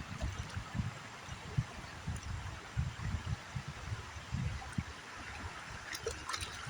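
Water sloshing in uneven low surges as a gold pan of river gravel is worked in the water, over the steady running of the river, with a few light clicks about six seconds in.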